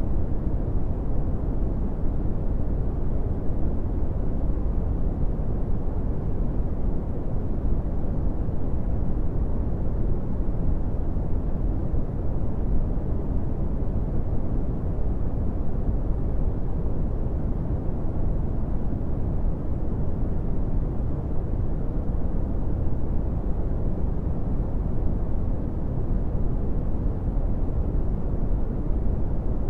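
Brown noise: a steady, deep rushing hiss, loudest in the bass and dull in the highs, unchanging throughout.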